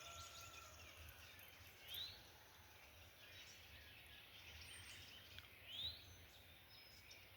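Faint outdoor ambience with a bird giving two short rising whistled notes, one about two seconds in and another near six seconds.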